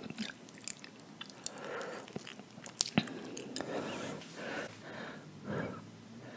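A person chewing and biting a mouthful of spicy stir-fried instant noodles close to the microphone, with scattered sharp clicks. The loudest clicks are a pair about three seconds in.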